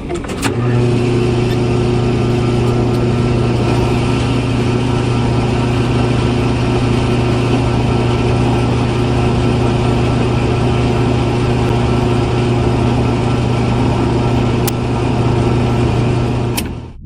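A mini tractor's motor running steadily at one constant speed: a low, even hum with a noisy rattle over it. It stops abruptly near the end.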